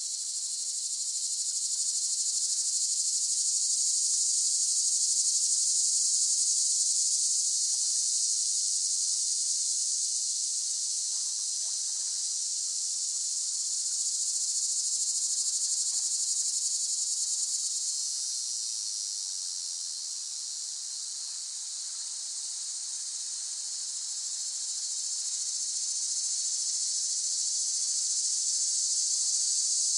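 Cicadas singing in a continuous high-pitched chorus, slowly swelling and fading in loudness.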